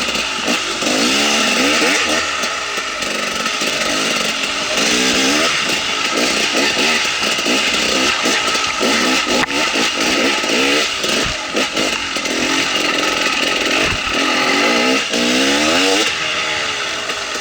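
2017 KTM 300 XC-W's two-stroke single-cylinder engine revving up and down repeatedly as the dirt bike is ridden, with a couple of brief low knocks.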